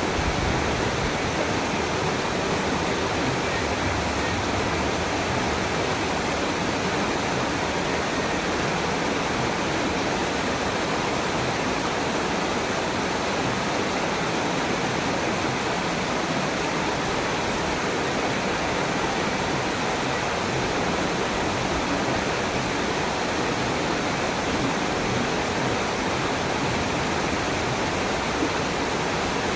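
Waterfall with steady, unbroken rushing and splashing water.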